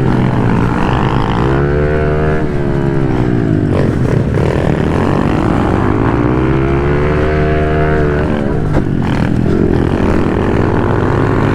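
Pit bike engine being ridden hard, its revs climbing and falling several times with the throttle and dropping off sharply about eight seconds in.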